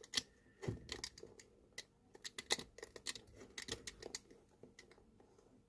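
Knife cutting through heat-softened glue as the old storm welt is pulled away from a leather boot upper: a run of irregular sharp clicks and crackles, thinning out about four seconds in.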